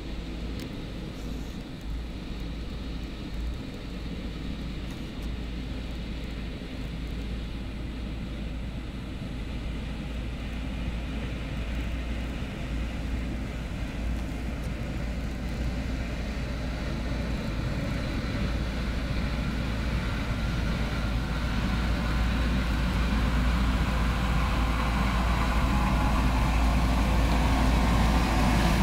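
Heavy snow-clearing vehicle's engine running steadily with a deep rumble, growing gradually louder over the whole stretch.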